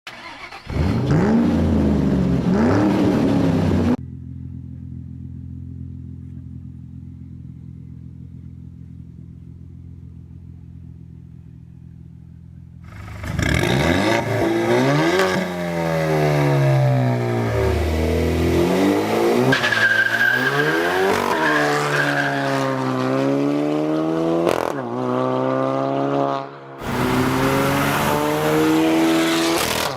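Four-cylinder car engines in a run of clips. A short loud burst of revving comes first, then a steady idle for about nine seconds, then repeated revs rising and falling. A sudden cut near the end leads into another engine running loudly.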